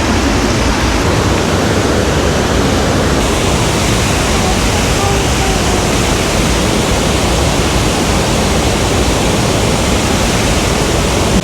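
Waterfall close by, water pouring down a series of rock shelves into a pool: a loud, steady rush.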